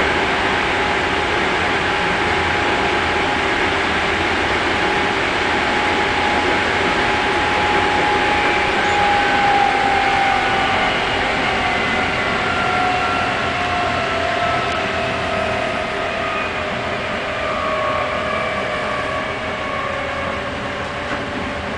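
Japanese electric commuter train heard from inside the carriage while under way: a steady rumble and hiss of running noise, with the motors' whine sliding slowly down in pitch and the noise easing off over the second half as the train slows.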